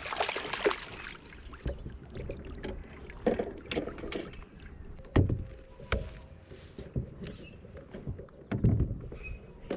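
Irregular knocks and low thumps on a kayak, with a short wash of water-like hiss in the first second.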